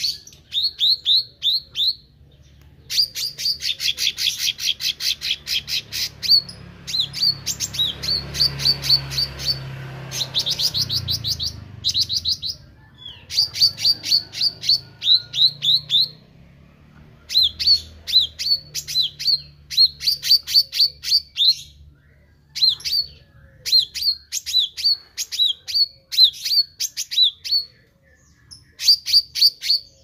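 Caged meranti bird singing busily: rapid runs of high, downward-sliding chirps, each run lasting one to three seconds, repeated again and again with short pauses between. A faint low hum sits underneath, strongest in the first half.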